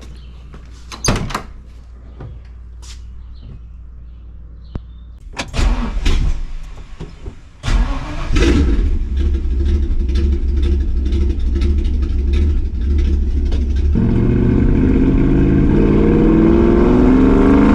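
1965 Ford Mustang's 302 V8, its exhaust headers freshly resealed, starting after a brief crank and settling into a steady run, then pulling away about 14 s in with the engine note rising. A few sharp knocks and clicks come before the start.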